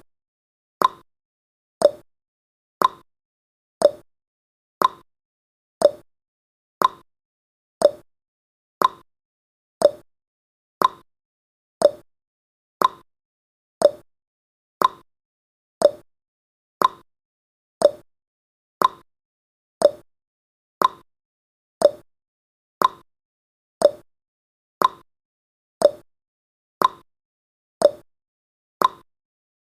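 Countdown timer's ticking sound effect: a short, clock-like tick once every second, evenly spaced.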